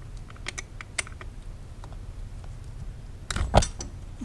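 Hand tools clicking and clinking against metal while a coil pack's mounting bolts are worked loose deep in a V8 engine bay: scattered light clicks, then a louder knock and clank near the end.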